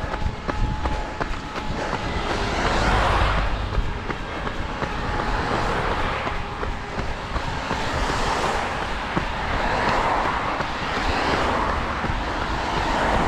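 Road traffic passing several times, each vehicle's hiss swelling and fading within a second or two.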